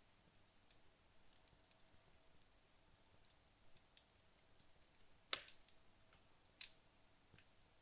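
Wood logs burning down in a fireplace, giving faint, sparse crackles and ticks, with two louder pops about five and a half and six and a half seconds in.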